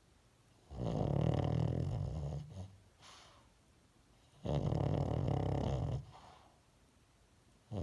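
A dog snoring in its sleep: two long, loud snores about three and a half seconds apart, with a faint breath between them, and a third snore starting at the very end.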